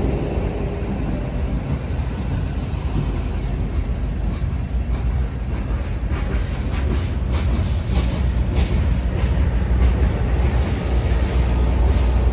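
A train rolling past with a steady low rumble, its wheels clicking over rail joints through the middle stretch.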